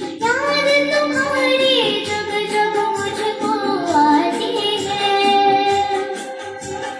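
A girl singing a melody, holding long notes and sliding smoothly between pitches.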